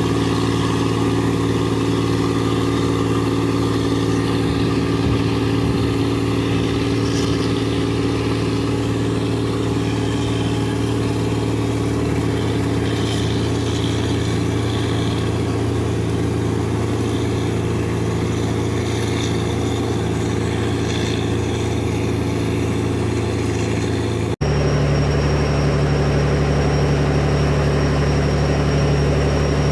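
A boat's engine running steadily with a continuous drone. About 24 seconds in, the sound cuts abruptly to a different, lower engine drone.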